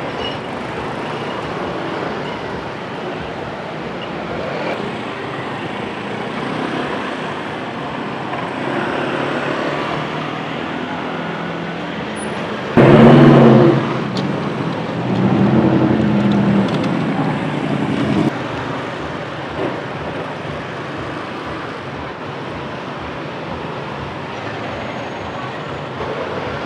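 Steady street traffic with motorcycles and cars going by. About halfway through, a louder engine passes close for about five seconds, the loudest sound here.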